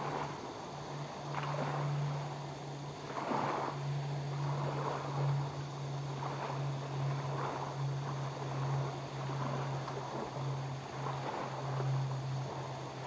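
Lake water lapping at the shore in soft, irregular swells, with wind and a steady low hum underneath.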